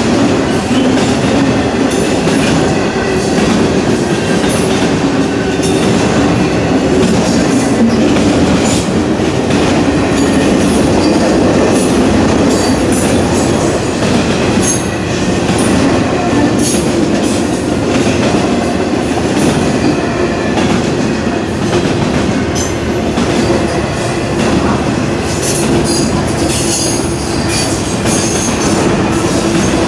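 Intermodal freight train of truck trailers on flatcars rolling steadily past, its wheels rumbling and clattering over the rails.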